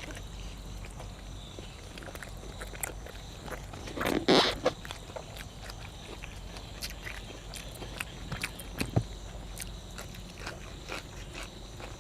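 A person eating close to the microphone: biting and chewing cuttlefish and fresh vegetables, with scattered small clicks and smacks. About four seconds in there is one louder, noisy crunch or slurp lasting about half a second.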